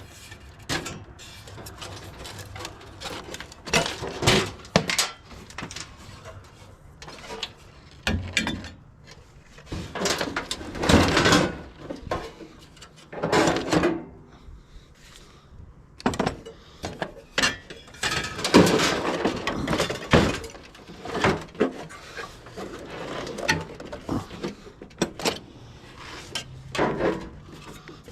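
Sheet metal and parts of a scrapped water heater being handled and pried apart during a teardown: irregular metal clanks, knocks and scraping, with pauses between.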